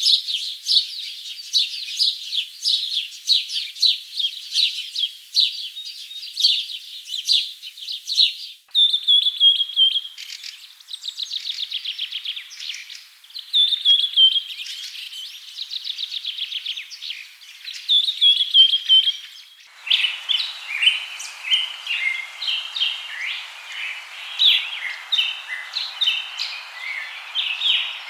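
Birds calling and singing in a busy chorus of quick chirps and rapid trills. The soundscape changes abruptly twice, at about 9 seconds and about 20 seconds; the last stretch has a steady hiss beneath the calls.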